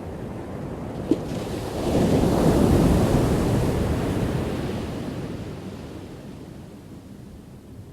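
Ocean waves crashing on a shore: a wave breaks about two seconds in, and its wash fades away over the following few seconds. A brief click sounds about a second in.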